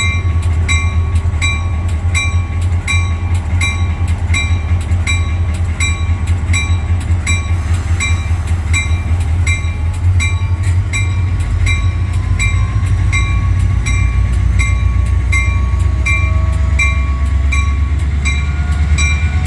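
ACE commuter train arriving, its diesel locomotive giving a deep steady rumble. A bell rings steadily through it, about one and a half strokes a second. Faint rising tones creep in over the second half.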